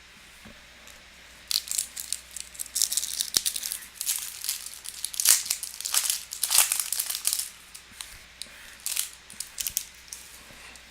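Foil trading-card pack wrapper crinkling and tearing in irregular bursts of crackle, as a pack of Topps Chrome baseball cards is opened and handled.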